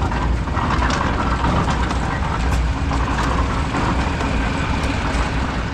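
Vintage tractor engine running steadily with a low rumble.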